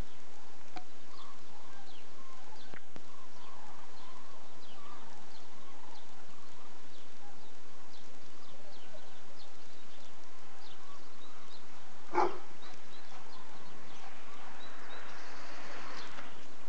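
Many birds chirping: short high chirps scattered throughout, with one louder, sharper call about twelve seconds in.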